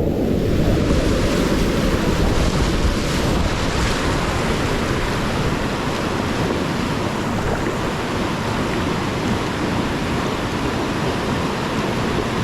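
Whitewater rapids rushing: a loud, steady roar of churning river water, picked up close by a kayaker's camera.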